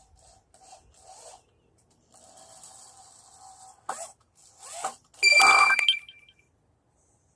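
Soft scraping and rustling, a couple of knocks, then a loud metallic strike about five seconds in that rings briefly before dying away.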